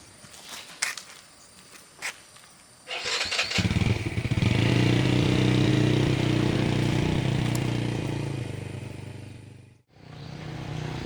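An engine starts about three seconds in and runs steadily, then fades and cuts off abruptly near the end. A few sharp clicks or knocks come before it.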